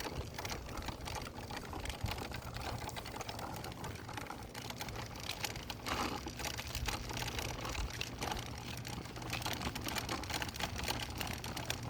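Footsteps on the road while walking: a steady run of small, irregular clicks and scuffs.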